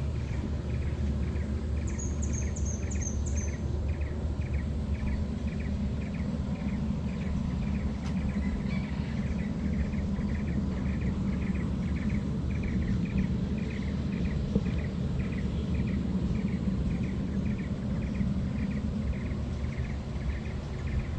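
A bird calling the same short chirp over and over, about two to three times a second, with a brief run of higher, quicker notes about two seconds in, over a steady low outdoor rumble.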